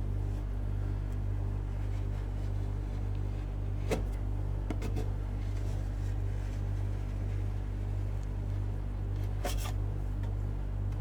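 Steady electric hum of a rolled-ice-cream cold plate's refrigeration machine, with a few sharp clicks of metal spatulas striking the plate about 4 s in, just before 5 s and again near 9.5 s.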